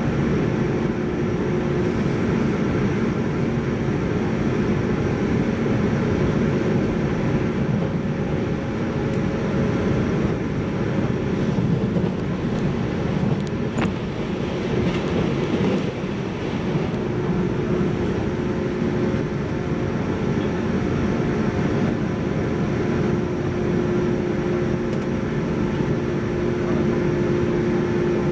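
A 185 series electric train running, heard from inside the passenger car: a steady rumble of wheels and running gear. A steady hum drops away a couple of seconds in and returns about two-thirds of the way through, and there is a single click near the middle.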